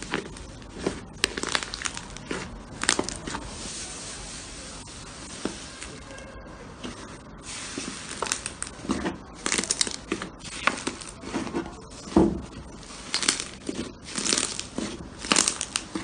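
Slime being squeezed and stretched by hand, making irregular sticky pops, squelches and crackles. There is a steadier hissing stretch about four seconds in, and denser sharp crackling in the second half.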